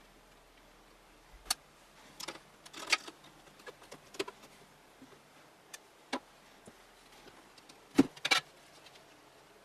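Scattered clicks and knocks of hands handling parts inside a computer case, irregular and a few seconds apart, the loudest a dull knock about eight seconds in.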